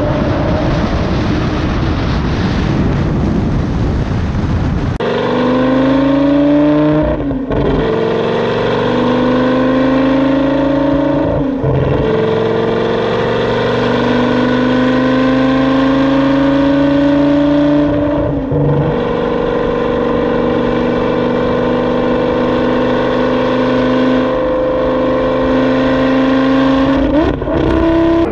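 Lamborghini Gallardo's V10 engine pulling through the gears. It opens with about five seconds of loud rushing noise, then the engine note climbs slowly, broken by short dips at upshifts about seven, twelve, eighteen and twenty-seven seconds in.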